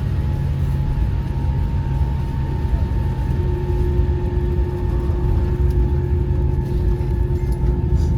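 Steady low rumble inside the passenger cabin of a Boeing 787-8 airliner, with a faint steady whine above it.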